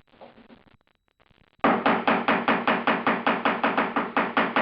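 Body hammer rapidly tapping the warped steel door skin of a 1976 Mazda Cosmo, about six or seven blows a second, starting after a pause of about a second and a half; the panel rings briefly with each blow. The hammering is working out warpage left by welding in a patch over the shaved door handle hole.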